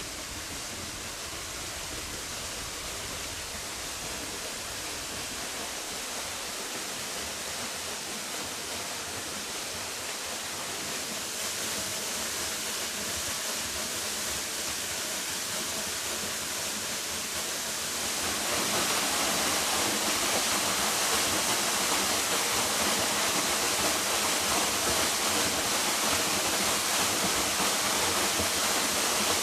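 Mountain waterfall, a steady rush of falling water that slowly grows louder and steps up suddenly about eighteen seconds in.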